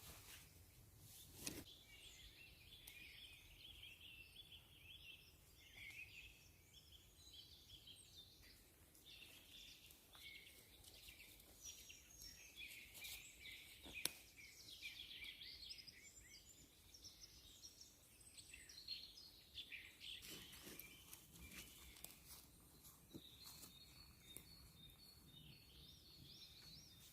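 Faint birdsong: several birds chirping and trilling on and off throughout, with a couple of brief clicks, one near the start and one about halfway.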